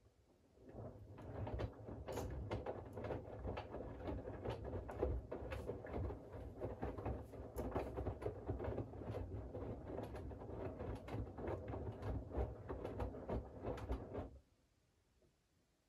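Siemens iQ700 WG56B2090 front-loading washing machine turning its drum during the wash: laundry tumbling with many small knocks over a low hum. It starts about a second in and stops abruptly near the end, one turn of the wash rhythm between pauses.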